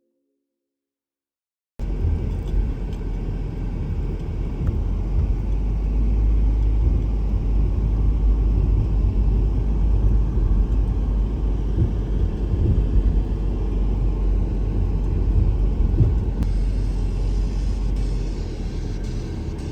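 Silence for almost two seconds, then a car's steady driving rumble of road and engine noise, heavy in the low end, that cuts in suddenly and runs on evenly.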